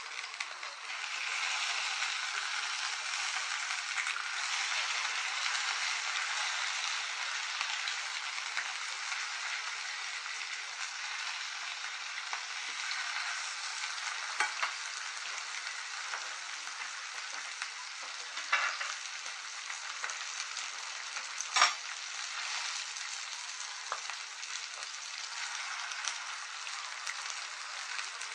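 Salmon fillets sizzling in a frying pan, a steady hiss throughout. A few sharp clicks of a fork against the pan come in the second half, the loudest about three-quarters of the way through.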